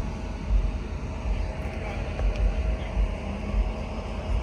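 Background noise: a low, uneven rumble that swells and fades, with a faint steady hum and some faint voices.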